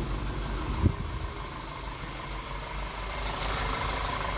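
VW Group 2.0 TSI four-cylinder petrol engine idling steadily, with a single short thump about a second in. The engine is drawing unmetered air through a blown rear main seal, so the ECU is adding fuel at its 25% trim limit, as the owner finds.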